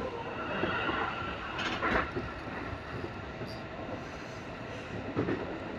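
Electric train running, heard from the driver's cab: steady wheel-on-rail running noise, with a sharp clack about two seconds in and a smaller one about five seconds in.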